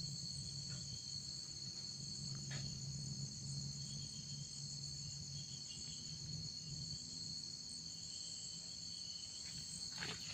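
Night insects, crickets, chirping in a steady high-pitched chorus, with a few fainter chirps on top and a low steady hum beneath.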